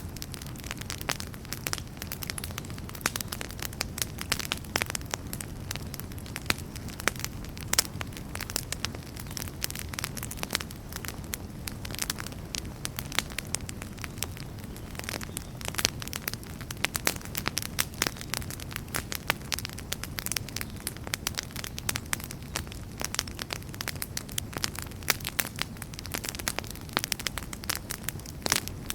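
Wood campfire burning and crackling, with frequent sharp irregular pops and snaps over a steady low rumble of the flames.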